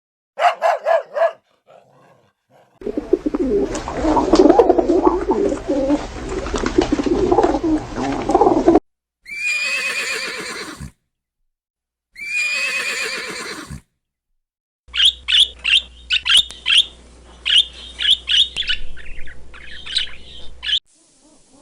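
A run of separate animal calls: four short yips near the start, then about six seconds of dense cooing and chatter from a flock of doves or pigeons, two longer high calls, and finally a string of quick, high bird chirps.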